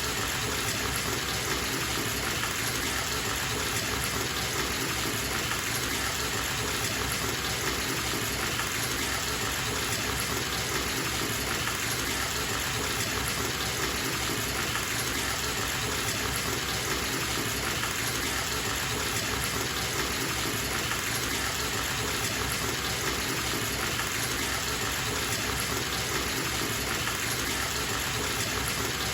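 Bathtub tap running, a steady unbroken gush of water pouring into the tub.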